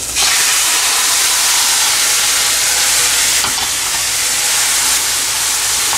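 Boiled chicken pieces and their cooking liquid hitting hot oil and onion-tomato masala in a frying pan: a sudden loud sizzle right at the start that goes on as a steady hiss.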